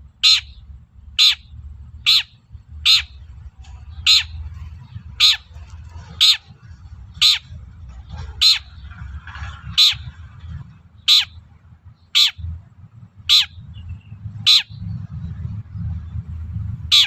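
Long-tailed shrike (cendet) giving short, harsh calls about once a second, repeated steadily, over a low steady background rumble.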